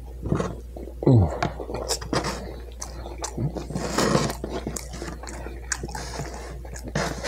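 Close-up wet chewing and lip-smacking of a person eating a meat-filled tortilla, many small clicks and smacks, with a short falling hum from the eater about a second in. A low steady hum sits underneath.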